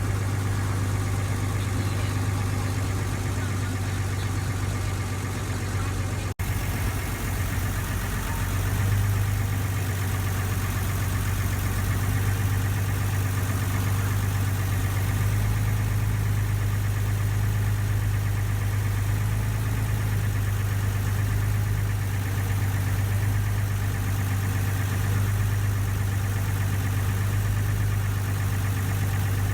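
Ferry boat's engine running steadily with a deep, even hum. There is a split-second dropout about six seconds in.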